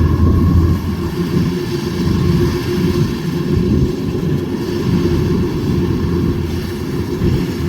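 Kubota DC105X combine harvester running steadily while harvesting rice: a constant low engine-and-machinery drone with a steady hum, slightly louder at the start.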